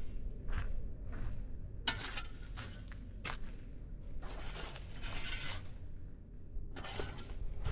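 Dry grass burning on the ground, crackling with scattered sharp snaps and pops, with longer rushing bursts about two seconds in and again around the middle, over a steady low rumble.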